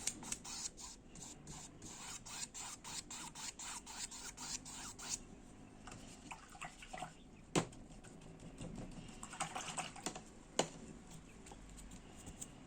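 Paintbrush working quickly on the painting surface in short scratchy strokes, about four a second, stopping about five seconds in. Two sharp taps follow a few seconds apart, with softer brushing between them.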